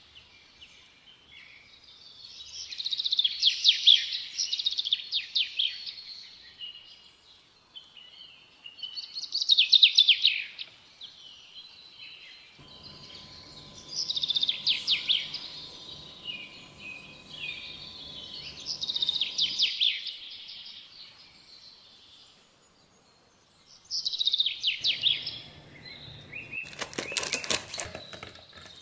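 A songbird singing in phrases of fast trills, one every few seconds, with a faint steady hum partway through and a quick run of clicks near the end.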